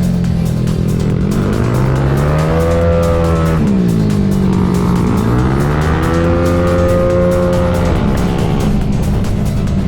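Tuned 237cc Gryphus-engined Yamaha Cygnus X race scooter accelerating twice under full throttle. Each time the engine note climbs, then holds at a steady pitch as the CVT shifts up, and drops sharply when the throttle closes, about 3.5 and 8 seconds in. Background music plays under it.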